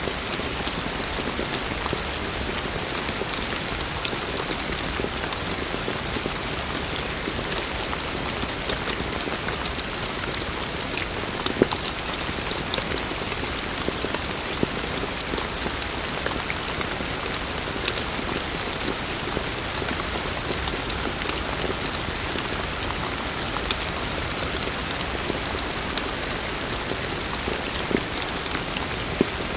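Heavy rain falling steadily, a dense even hiss with scattered sharper drop hits, a few louder ones about twelve seconds in and near the end.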